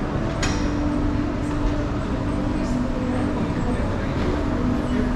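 Steady rumble of a busy indoor passageway, with a low hum, indistinct voices and a few sharp taps.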